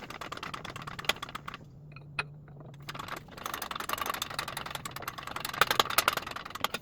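Dense, rapid metallic clicking and rattling from a hydraulic shop press and the steel cam gear parts being worked as a heated scissor gear is pressed onto a camshaft. There is a pause with a single click about two seconds in, then the clicking resumes.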